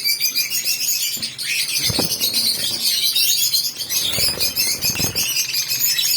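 A flock of young budgerigars chattering continuously in a dense, high twitter, with a few dull thumps about two seconds in and again around four to five seconds in.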